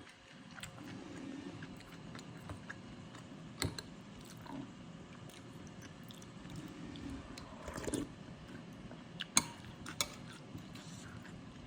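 Close-miked chewing of a mouthful of soto mie, Indonesian noodle soup with meat, with a few sharp clicks: one about a third of the way in and two close together near the end.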